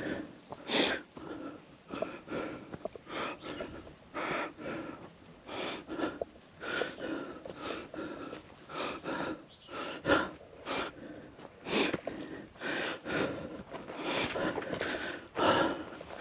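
A person breathing hard and heavily while climbing a steep hill on foot, with a noisy breath every second or so.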